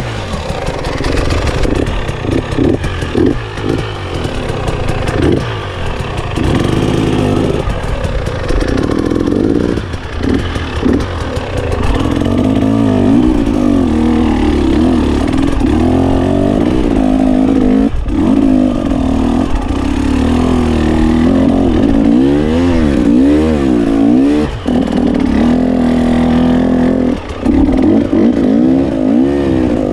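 GasGas 300 enduro motorcycle engine being ridden off-road, its revs rising and falling again and again as the throttle is opened and closed, with a few brief drops in between.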